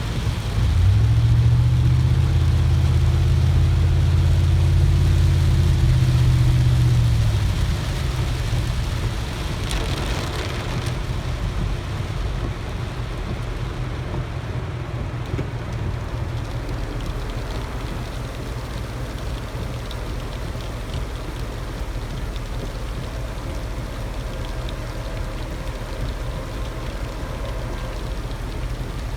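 Car driving in heavy rain: steady road and rain noise on the car. A louder low hum runs from about a second in until about seven seconds, then stops, leaving the steady rain and road noise.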